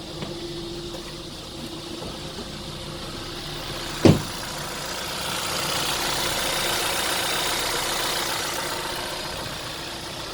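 VW Golf engine running at idle with a steady hum. A single sharp thump comes about four seconds in, and the engine noise swells for a few seconds after it before easing back.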